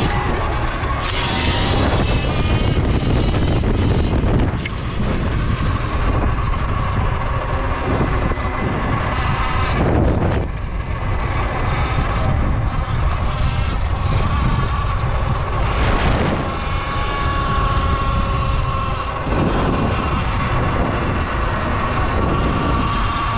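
Sur Ron electric dirt bike under way: wind buffeting the microphone, over a thin steady high whine from the electric drive. The whine is stronger near the end, and the wind noise swells briefly a few times.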